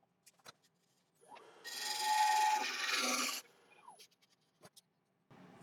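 A bowl gouge taking a cut in a spinning sycamore bowl: one scraping, hissing pass of about two seconds in the middle, with a steady tone for part of it, and small clicks of tool on wood before and after.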